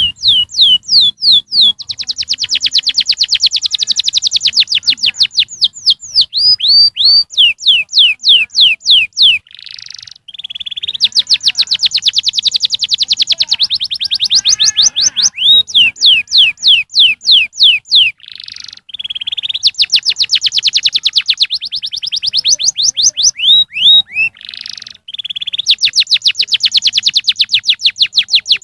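Domestic canary singing a long song of fast trills. Rapid runs of repeated downward-sweeping notes alternate with dense rolling trills, broken by a few brief pauses.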